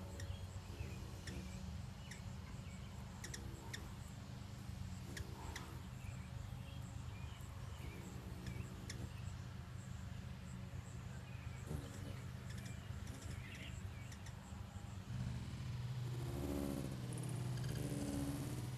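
Small birds chirping on and off outdoors over a steady low hum. Near the end a louder, wavering low sound comes in.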